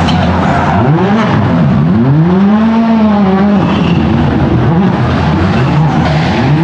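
Citroen C3 WRC Plus rally car's turbocharged 1.6-litre four-cylinder engine at high revs, loud, its pitch dropping sharply and climbing again several times as the throttle is lifted and reapplied.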